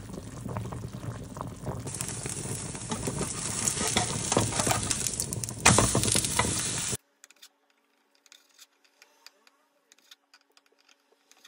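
A pot of pork boiling briskly, then a Korean chive pancake (buchujeon) sizzling and crackling in oil in a frying pan, with a sharp clatter of the spatula about six seconds in. After about seven seconds the sizzling cuts off, leaving only faint taps of a knife slicing boiled pork on a cutting board.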